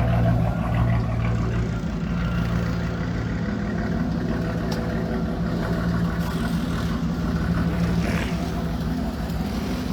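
Dodge Dakota's V6 idling steadily through its muffler-deleted exhaust.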